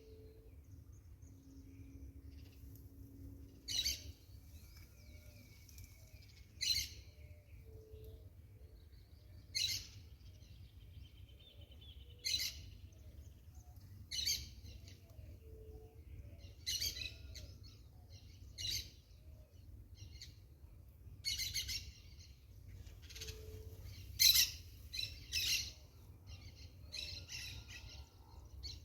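Short harsh bird calls repeating every two to three seconds, coming closer together near the end, over a low steady rumble.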